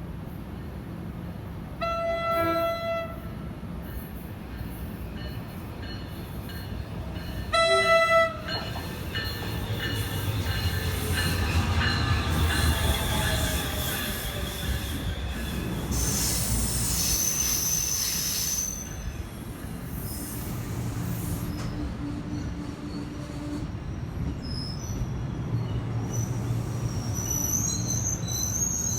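Passenger train horn sounding two short blasts, the second louder. The train then passes with a rumble of wheels on rail, its tones falling in pitch, and a high wheel squeal partway through; more high squeals come near the end.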